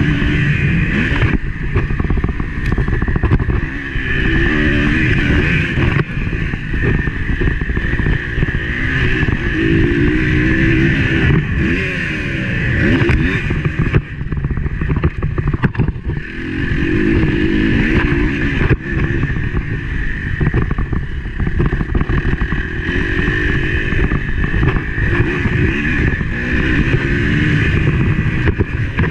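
Motocross bike engine heard from a camera mounted on the bike, revving up and down again and again as the rider races around the track, with brief drops in loudness when the throttle is shut.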